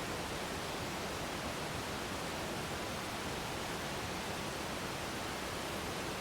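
Waterfall: a steady, even rush of falling water with no breaks or distinct splashes.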